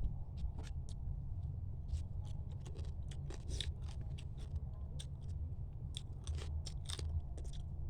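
Close-up eating sounds from a mud crab meal: irregular crunching, cracking and chewing, many short sharp crackles in quick succession, over a steady low hum.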